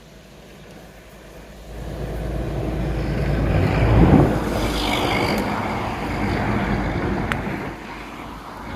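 A road vehicle driving past, building over a couple of seconds, loudest about four seconds in, then fading near the end.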